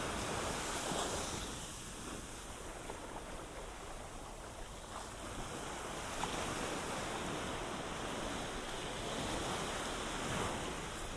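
Ocean waves washing onto a sandy beach, swelling near the start and again near the end.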